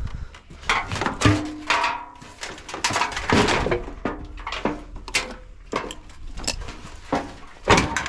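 Screwdriver prying at a washing machine's door seal and sheet-metal parts, with repeated sharp knocks and scrapes and short metallic rings.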